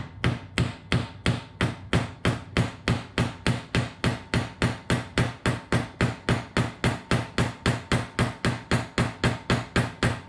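A hammer taps steadily on a screwdriver, about three even strikes a second, while the screwdriver is turned. This is an attempt to break loose a stuck, stripped screw on the engine's clutch-side case cover, which does not come free.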